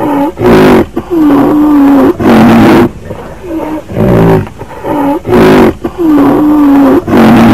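Rhinoceros vocalizing: loud calls whose pitch wavers and bends, alternating with harsh, noisy blasts of breath. The same sequence of calls repeats about every five seconds.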